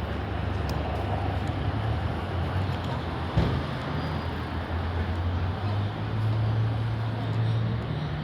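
City street traffic: a steady low engine rumble from passing vehicles, with a single sharp knock about three and a half seconds in.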